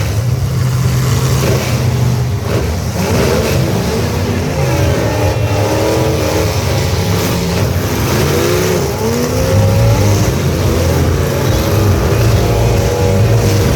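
Several truck engines running hard at once, revving with pitches rising and falling over a steady low rumble.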